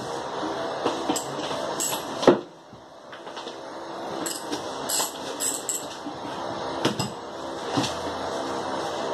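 Clicks and knocks of tools and small parts being handled while a throttle body is taken apart, with one louder knock about two seconds in, over a steady background noise.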